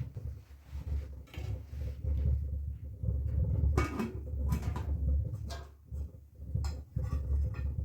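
Several light knocks and clatters over a low rumble.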